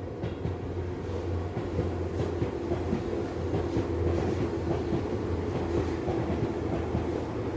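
Electric commuter train running past, its wheels clicking over the rail joints over a steady low hum.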